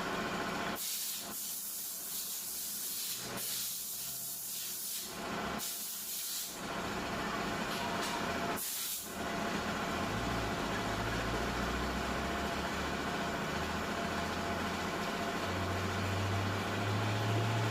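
Four short hissing blasts from a pressurised nozzle on disassembled transmission parts, each lasting one to two seconds. About ten seconds in, a low hum starts and grows louder near the end.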